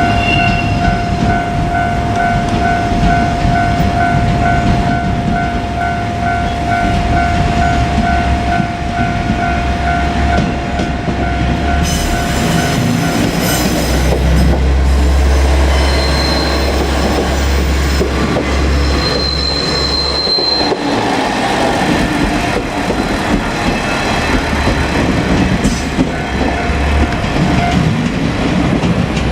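A level crossing warning bell rings with a steady repeating tone for the first half. A two-car KiHa 47 diesel railcar set then runs past with a deep engine rumble and wheel noise on the rails. A brief high squeal from the wheels comes twice around the middle.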